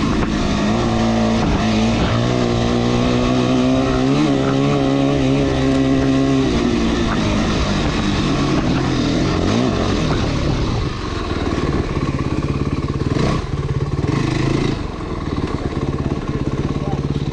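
Motorcycle engine pulling on throttle on a dirt trail, its pitch rising and wavering for the first six seconds. It then eases off to a lower, steadier running, with a single sharp knock about thirteen seconds in.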